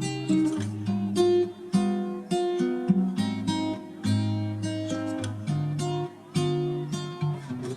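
Background music: an acoustic guitar playing a run of plucked notes and chords.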